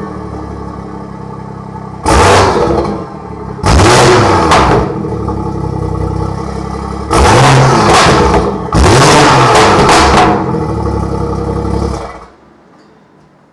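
BMW M140i's tuned 3.0-litre turbocharged straight-six running through a Remus aftermarket exhaust, idling and revved four times in short blips of about a second each. The sound cuts off suddenly near the end.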